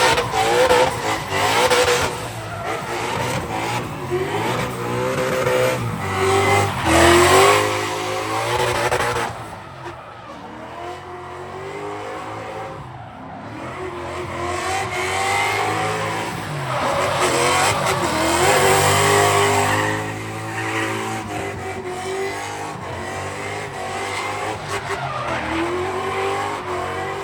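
Performance cars' engines revving hard, rising and falling in pitch, with tyres squealing and skidding. The sound is loudest in the first third and again past the middle, and eases off in between.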